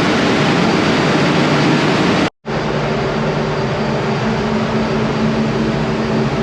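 Loud, steady ship engine-room machinery noise. A rushing noise is cut off abruptly about two and a half seconds in, and a steady machinery hum with several low droning tones follows.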